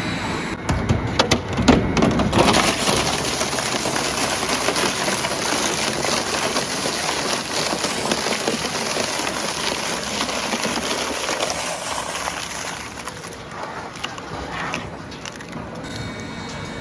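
Waste wood being crushed in a wood chipper shredder: a few sharp knocks, then a dense, steady crackle of splintering wood for about ten seconds that fades away near the end.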